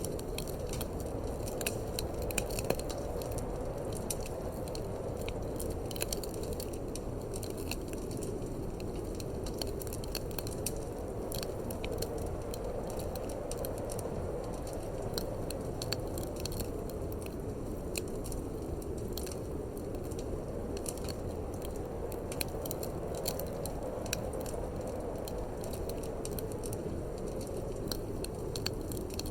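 Wood fire in a fireplace crackling and popping with many irregular sharp snaps, over a steady low rush of wind.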